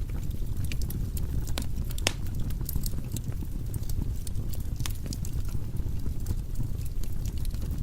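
Wood fire burning in a fireplace: irregular sharp crackles and pops of the burning logs over a low steady rumble of the flames.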